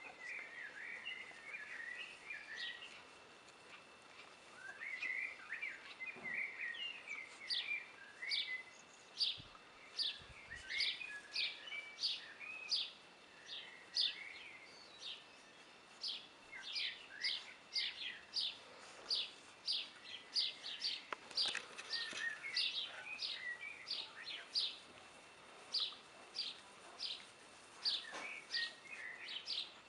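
A bird calling over and over outdoors: a short, high chirp that falls quickly in pitch, repeated about once or twice a second from several seconds in, with softer, lower twittering squeaks in the first half.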